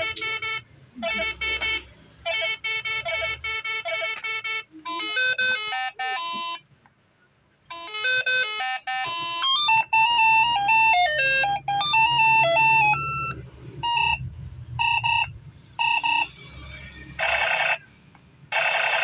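Toy steering wheel's electronic sound chip playing tinny beeping tunes: repeated short beeps, then simple one-note-at-a-time melodies, with a break of about a second partway through and spaced beeps near the end.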